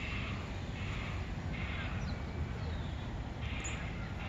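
A bird cawing three times, the calls about a second and a half to two seconds apart, over a steady low rumble.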